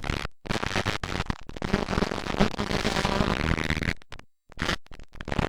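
Motocross dirt bike engines running hard on the track, loud and crackling as they overload the camcorder's microphone. The sound cuts out completely twice, briefly near the start and for about half a second near the end.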